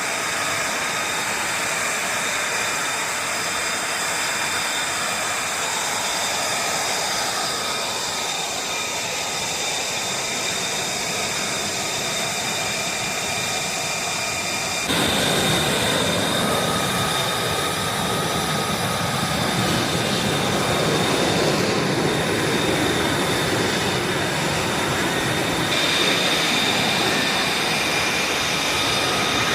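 F-35B Lightning II's jet engine running steadily: a broad rush under a high whine held on a few fixed pitches. About halfway through, the sound abruptly gets louder and fuller, and the whine shifts again near the end.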